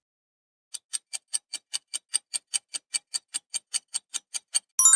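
Quiz countdown-timer sound effect: clock-like ticking at about five ticks a second, ending near the end in a bright ding chime that marks the time being up.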